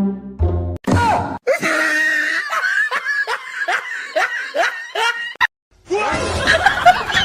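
Short end of light music, then a person laughing hard in quick repeated bursts, about three a second, followed after a brief break by more laughing and shrieking.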